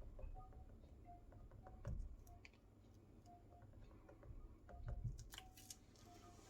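Near silence in a small room, with faint scattered clicks and taps and two soft low thumps about two and five seconds in.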